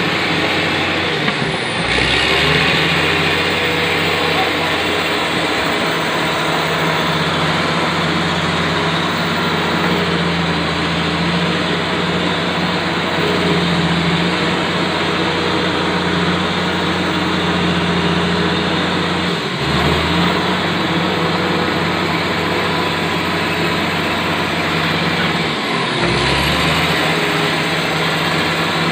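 Komatsu D85ESS bulldozer's diesel engine running at working speed, its pitch dipping briefly and recovering three times.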